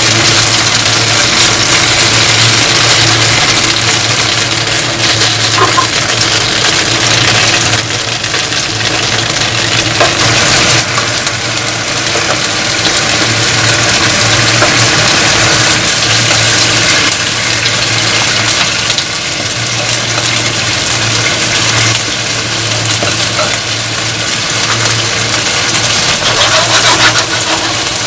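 Steady machine hum with a loud, even hiss over it, running without a break.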